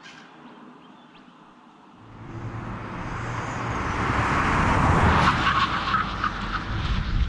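Mercedes-AMG A45 S's 2.0-litre turbo four-cylinder engine and exhaust, building from about two seconds in and loudest around five seconds, with a run of quick pops near the end.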